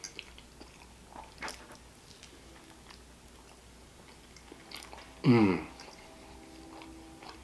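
Close-up mouth sounds of a person chewing and biting into pizza, with scattered soft crunches and clicks. About five seconds in, a short voiced sound falls in pitch.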